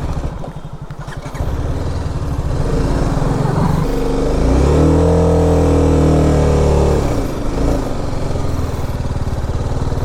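BMW G 310 RR's single-cylinder engine revving under load on a steep climb: revs rise, are held high for a couple of seconds, then drop back about seven seconds in.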